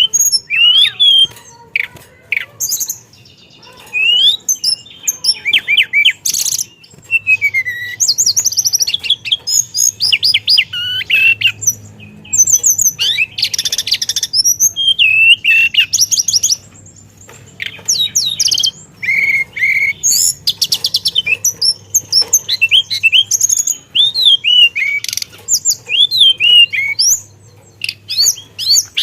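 A teledekan songbird singing hard: a fast, varied song of rolling trills, sweeping whistles and chirps strung with mimicked phrases, in bursts broken by short pauses.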